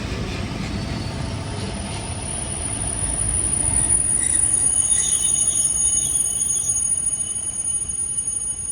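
EP2D electric train slowing into a platform, its rumble fading as a steady high-pitched squeal sets in about three seconds in and holds as it brakes toward a stop.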